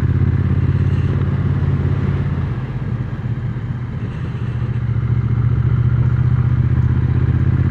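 Triumph Speed Twin 900's 900 cc parallel-twin engine running under way, heard from the rider's position with wind noise on the microphone. The engine eases off about two and a half seconds in and picks up again about two seconds later.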